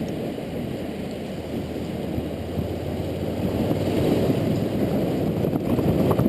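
Steady wind rush and road noise from a moving motorcycle, heard through a helmet- or bike-mounted action camera's microphone.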